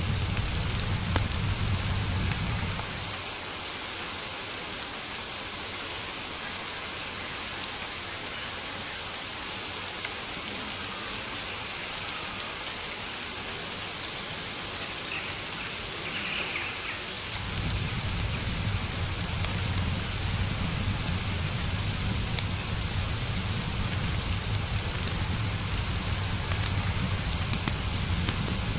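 Steady rain falling, a continuous even hiss. A low rumble under it fades out about three seconds in and comes back after about seventeen seconds.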